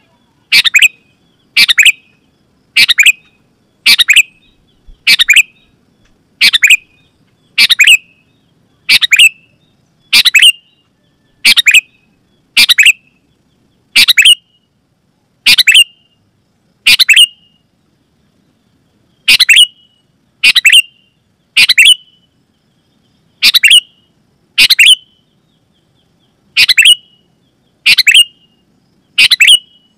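Sooty-headed bulbul (kutilang) giving loud, sharp chirping calls, each short and dropping in pitch, repeated about once a second, with a pause of about two seconds just past halfway.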